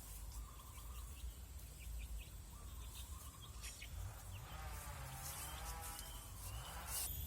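Forest ambience: birds chirping with short high notes and a few longer, wavering calls, over a faint low rumble.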